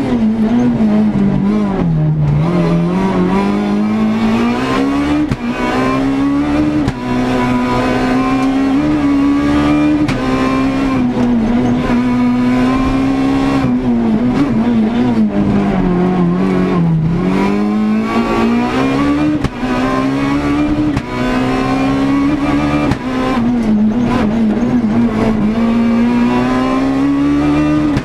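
Renault Clio S1600 rally car's four-cylinder engine driven hard, heard from inside the car: the engine note climbs through the gears with short breaks at the shifts, drops steeply several times as the car slows for corners, then rises again under acceleration.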